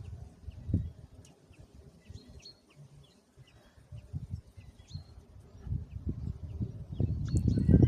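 Gusty wind buffeting the microphone, dying down for a couple of seconds and picking up again near the end, with a few faint bird chirps.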